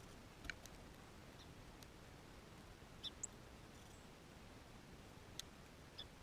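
Small birds giving scattered short, high chip notes, a few single notes several seconds apart, over a faint steady hiss.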